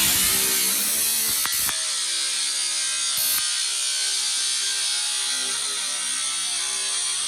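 Power tool cutting through the sheet-metal bed side of a pickup truck, running steadily with a buzzing tone.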